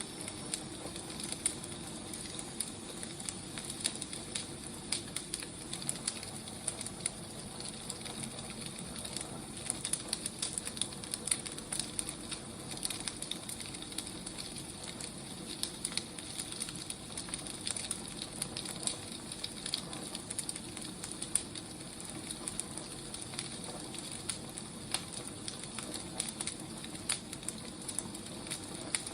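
Firewood burning, with a steady hiss and frequent irregular pops and crackles.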